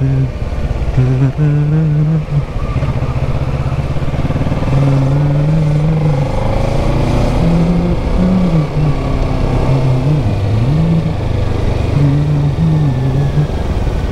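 Kawasaki Ninja 650's parallel-twin engine pulling uphill, with rumble and wind noise. The engine note rises and falls as the throttle changes through the bends, dipping low near the ten-second mark and then climbing again.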